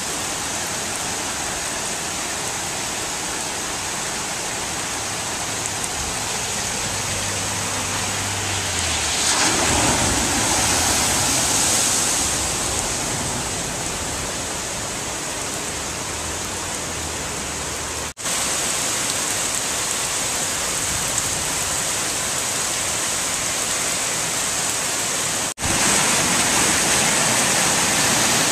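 Heavy hurricane rain, a steady dense hiss that swells louder for a few seconds partway through. It breaks off for an instant twice, where clips are joined.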